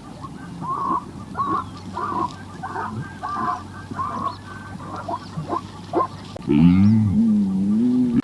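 A run of short honking animal calls, several a second, with a low wavering moan coming in near the end.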